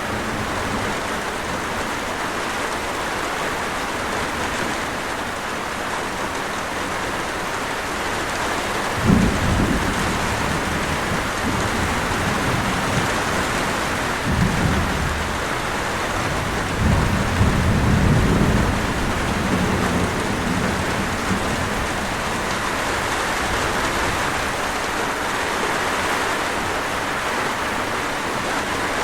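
Steady rain falling, with low rumbles of thunder three times near the middle, the last one the longest.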